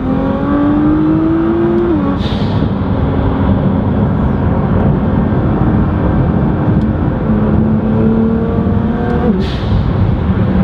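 Engine of an 800 hp twin-turbo V6 Nissan GT-R (2009 Black Edition with upgraded turbos and a Titan exhaust) heard from inside the cabin while driving. The engine note climbs, then drops about two seconds in with a short hiss of released turbo boost. It holds steady, climbs slowly again, and drops near the end with another hiss.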